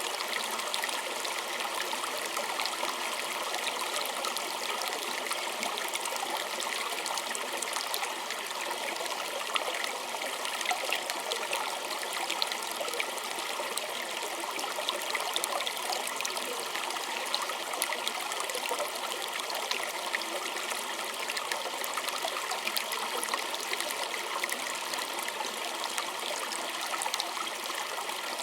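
Small stream flowing steadily: an even rush of water with a fine babble of many little splashes and trickles.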